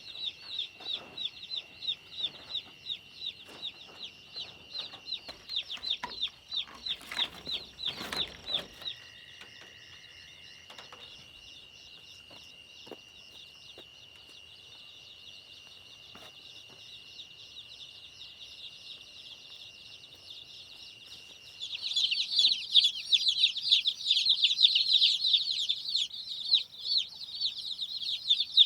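A crowd of newly hatched chicks peeping, many high, rapid chirps running together. The peeping is loud at first, drops to a faint background about a third of the way in, then swells loud again in the last quarter. A couple of knocks come about seven to eight seconds in.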